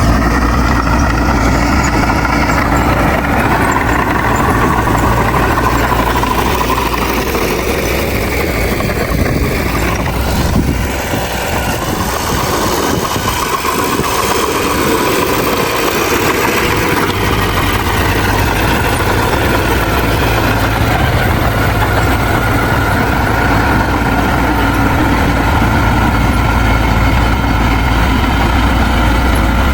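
Heavy diesel engine of earthmoving machinery running steadily, a bulldozer or dump truck at a land-fill site. Its low rumble eases for several seconds around the middle, then comes back strongly.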